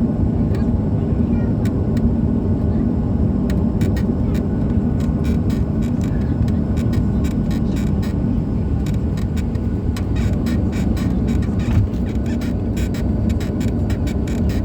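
Steady low rumble inside the cabin of a Boeing 737-800 airliner, with a run of short light clicks and rattles that grows busier from about four seconds in.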